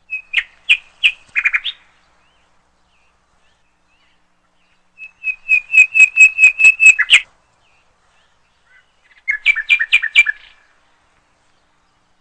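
Small bird singing: three short bursts of rapid repeated chirps, about a second or two each, with pauses between them.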